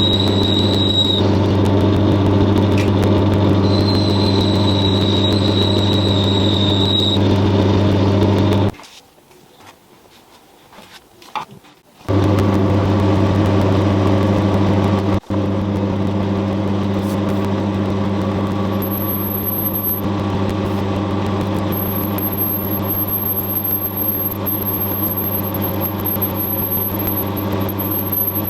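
A workshop machine tool running steadily with a low hum, and a high thin squeal that comes and goes during the first seven seconds. The sound drops out for about three seconds near the middle, then the machine runs on with a faint very high whine in the later part.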